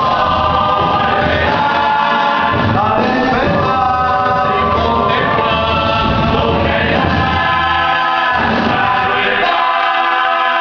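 Live music: several voices singing together in choir-like harmony over the band, the low end thinning out near the end.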